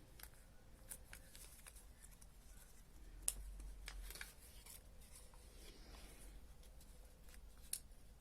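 Faint crackling and rustling of paper being unfolded and creased by hand during origami folding, with a louder crinkle about three seconds in.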